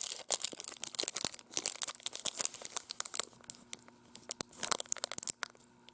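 Foil wrapper of a Topps baseball card pack crinkling and tearing as it is handled and opened, dense for about three seconds, then thinning to scattered crackles.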